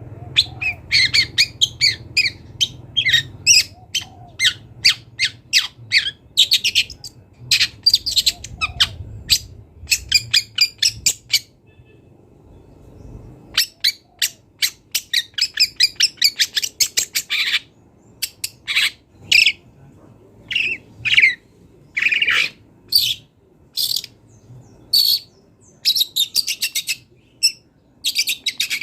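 Long-tailed shrike singing a varied song packed with imitated calls of other birds: fast runs of short, sharp notes, with a pause of about two seconds near the middle.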